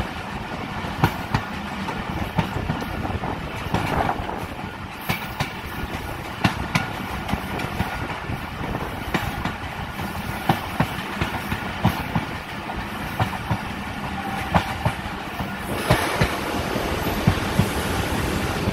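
Pakistan Railways passenger coach running, heard from on board at an open window: a steady rumble with irregular clacks of the wheels over rail joints. It grows a little louder near the end.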